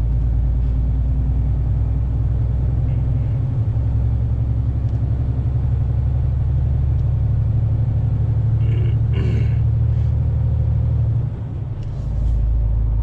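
A truck's diesel engine running with a steady low rumble heard from inside the cab. Its low note shifts a few seconds in and dips briefly near the end before coming back.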